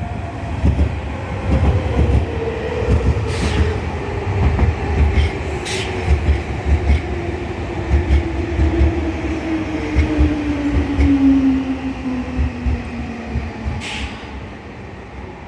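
Nankai electric train slowing as it comes in, its traction-motor whine falling steadily in pitch over the wheels' rumble and clatter on the rail joints. There are a few short, high squeals from the wheels or brakes.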